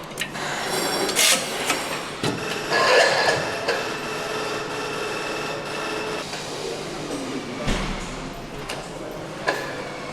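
Engine assembly plant floor noise: machinery running with clanks and knocks, bursts of air hiss, and a steady high whine for a few seconds in the middle.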